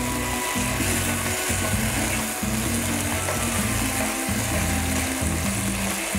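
Food sizzling in a frying pan as it is stirred with a metal spoon, under background music with held, changing notes.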